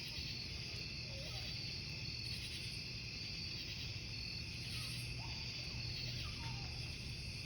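Crickets chirping in a continuous high, pulsing trill over a steady low rumble.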